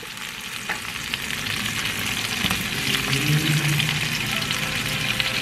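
Cherry tomatoes tipped into hot oil with shallots and garlic in a nonstick pan, sizzling steadily and getting louder after the first second as more go in, with a few light clicks and a short low hum about three seconds in.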